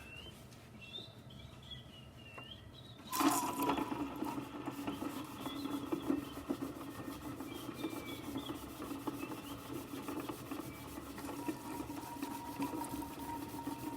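La Pavoni lever espresso machine's steam wand opened about three seconds in, giving a sputtering hiss over a steady low rumble, with the boiler still building up steam pressure.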